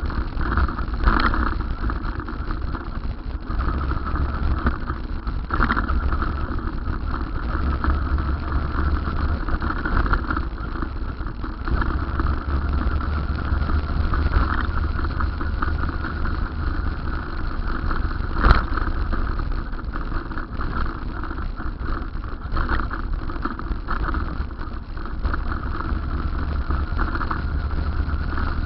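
Steady running noise of a ride on an electric cycle: a low rumble of road and wind noise with a constant mid-pitched hum over it. There is a single sharp click about eighteen seconds in.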